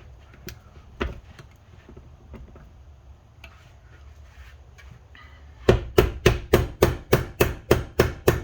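A single knock, then a little over halfway in a fast, even run of hammer taps, about three or four a second, driving a stiff-fitting part onto a Honda Civic transmission shaft.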